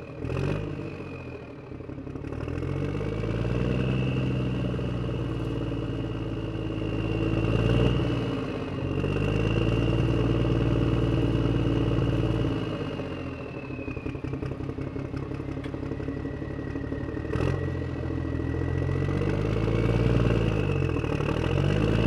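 A motor running in long stretches, its pitch rising and falling, with a high whine over it and a brief clatter now and then.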